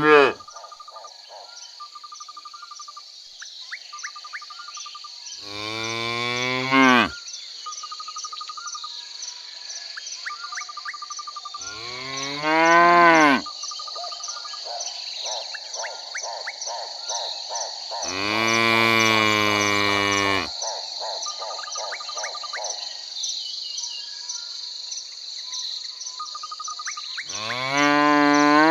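Cow mooing four times, long calls roughly every six seconds, over the steady high chirring of crickets.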